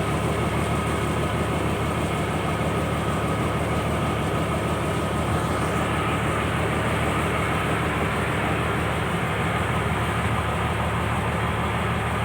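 Engine on a purse seine fishing boat running steadily at an even speed, a constant low drone.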